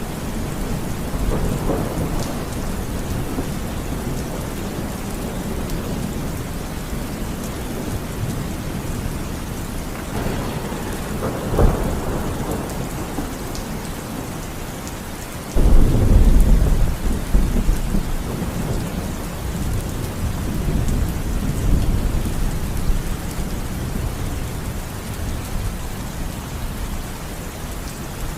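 Steady rain falling through a thunderstorm. Thunder rumbles in the first few seconds, a sharp crack of thunder comes a little before halfway, and a sudden loud peal about halfway through rumbles on for several seconds.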